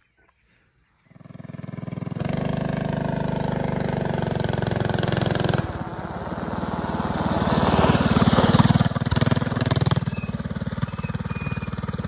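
A small bike engine running, louder and higher around eight to nine seconds in, then dropping back.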